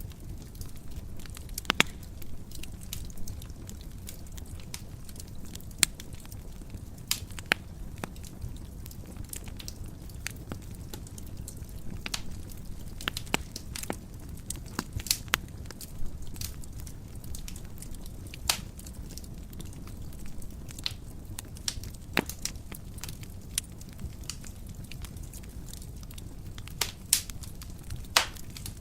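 Wood fire burning in a fireplace: a steady low rumble of flames with irregular crackles and sharp pops from the burning logs, a few louder snaps among them.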